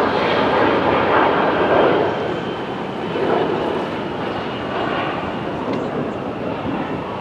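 Steady rushing noise of an aircraft passing overhead, loudest in the first two seconds and easing off after that.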